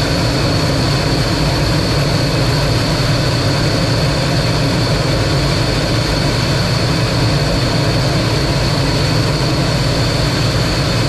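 T-33 jet trainer's turbojet running steadily in flight, heard from inside the cockpit as a loud, even rumble with a steady high whine above it.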